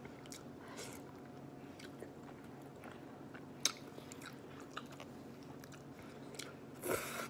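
Close-up chewing and lip smacking as a mouthful of rice and beans is eaten, with soft scattered clicks of a metal fork. There is a sharper click about three and a half seconds in and a louder mouth sound near the end.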